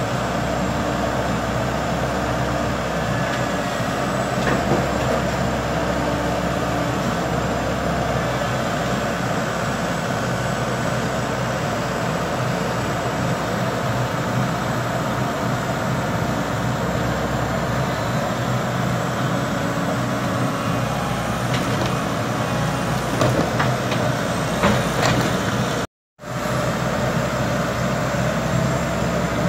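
Heavy diesel engine running steadily, with a few metallic clanks shortly before the sound cuts out for a moment near the end.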